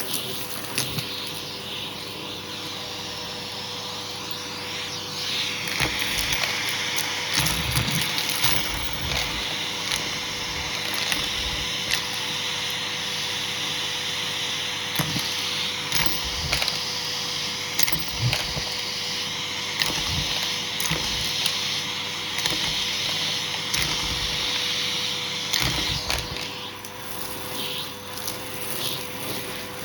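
Hoover vacuum cleaner running with a steady motor whine, its attachment tool sucking over a shag rug. The suction hiss grows louder from about five seconds in and eases a few seconds before the end, with scattered light knocks of the tool against the rug.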